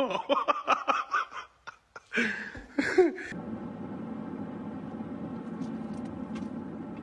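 A person laughing in short bursts, then a steady low hum with an even pitch from about three seconds in.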